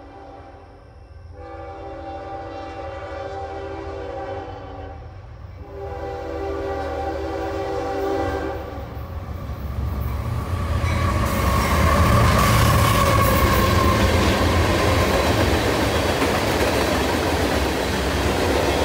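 Freight train horn sounding three blasts as the train approaches, the middle one the longest. After them, the train rolls past with a loud, steady rumble and the clickety-clack of its wheels over the rails.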